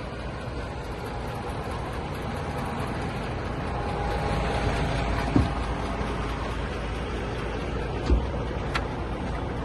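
DAF XF 480 tractor unit's diesel engine running, growing a little louder over the first few seconds, with two short thumps, one about halfway through and one near the end.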